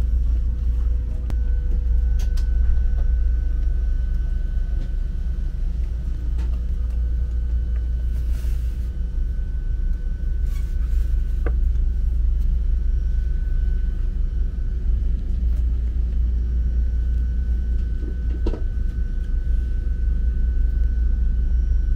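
DB ICE 3 high-speed train running, heard from inside the passenger car: a steady low rumble with a faint steady whine over it and a couple of light knocks.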